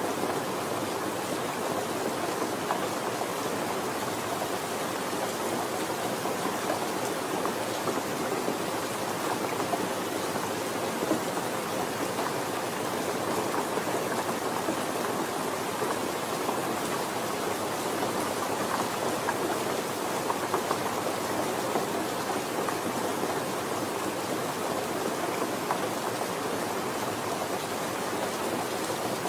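Steady rainfall, an even hiss of falling rain with small scattered drop sounds.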